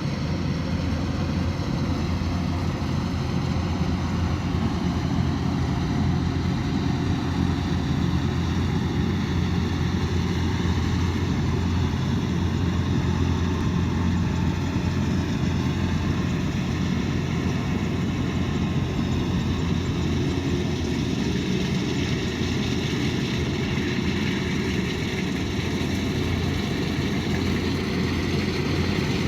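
Kubota DC108X combine harvester running steadily at work, a constant heavy engine hum under a dense mechanical wash.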